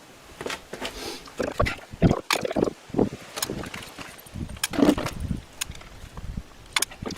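Irregular metallic clicks and knocks of hand tools and parts being handled while screws are taken out of the side cover of an e-bike hub motor.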